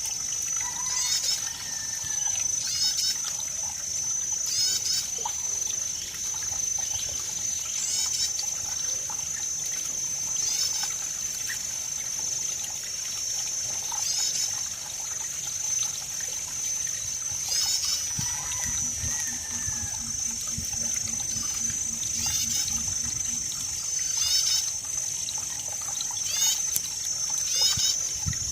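Water trickling and flowing, over a steady high-pitched drone and short chirps repeating every second or two. About two-thirds of the way through comes a low rattling call lasting about two seconds.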